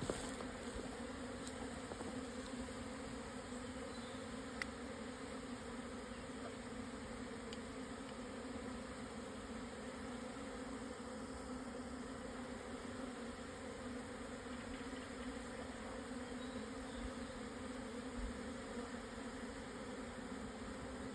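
A swarm of Japanese honeybees buzzing: a steady, even hum from a colony on the move to a new hive.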